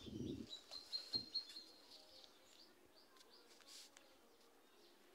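Faint bird chirps in the background, with a brief rustle of handled paper and fabric right at the start and a light tap about a second in.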